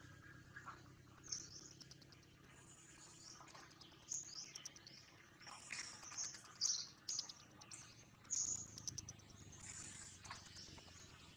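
Faint, short, high bird chirps, repeated every second or so, over quiet forest background.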